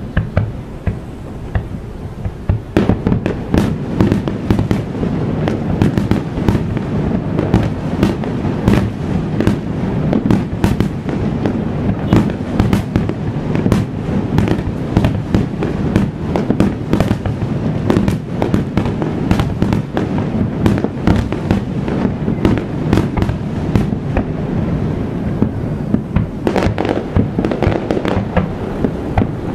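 Fireworks display: a rapid barrage of aerial shells bursting, many bangs a second over a continuous low rumble, picking up sharply about three seconds in.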